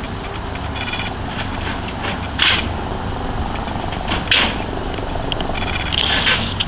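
Helicopters flying in a display, a steady noise with short loud rasping bursts about two and a half, four and six seconds in.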